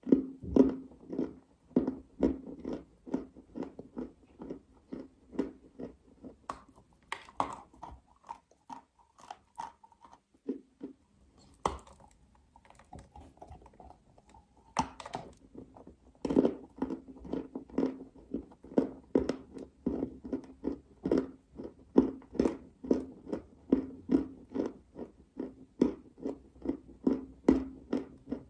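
A person chewing dry clay close to the microphone, in regular crunchy chews about two a second. A few sharper bites come through, and the chewing goes softer for a few seconds mid-way before picking up again.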